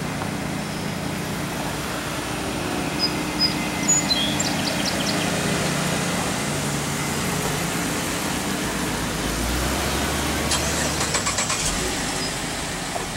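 Stretch Lincoln Town Car limousine's V8 engine running with a steady low hum, then pulling away, the engine note deepening briefly near the end. Birds chirp a few seconds in, and a quick run of clicks comes near the end.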